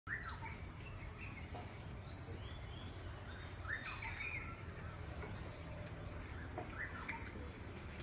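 Birds chirping and calling in trees: short calls at the very start and about halfway, then a quick run of high chirps near the end, over a low steady rumble.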